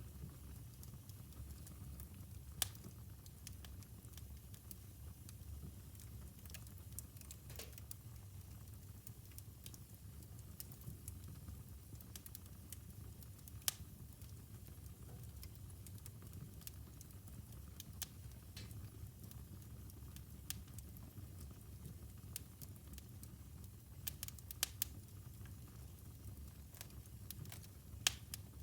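Wood fire burning in a fireplace: a steady low rumble with sharp crackles and pops every few seconds, several in quick succession about three-quarters of the way through.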